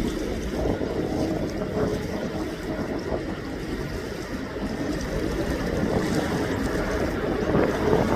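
Wind buffeting the microphone over a steady low rumble, growing louder near the end.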